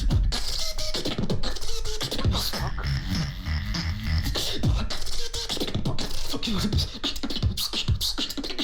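Beatboxing: a steady rhythm of deep bass kicks and sliding bass tones under hissing snares and fast clicks, all made with the mouth.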